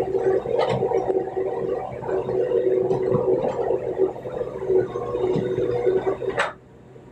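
Excavator's engine and hydraulics running steadily with a steady whine, while it works loading soil. About six and a half seconds in there is a sharp click and the sound drops away abruptly.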